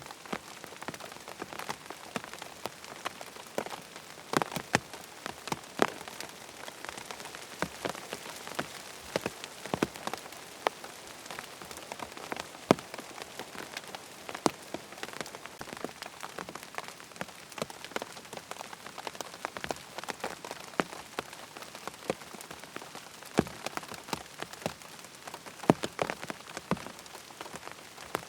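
Steady rain pattering on a tent, a soft hiss with frequent irregular sharp drop taps on the fabric.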